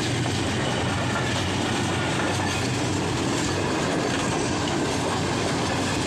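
Passenger train coaches running past close by on the track: a steady, loud rumble and rattle of wheels on the rails.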